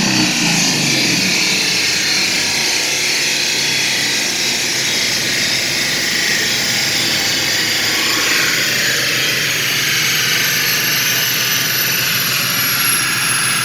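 Twin-turbo 5.0 Coyote V8 with its revs falling away right at the start, followed by a steady, loud rushing noise with a faint high whistle that slowly falls in pitch.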